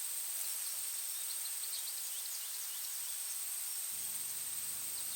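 Outdoor nature ambience: small birds chirping over a continuous high, thin insect drone. A faint low hum comes in near the end.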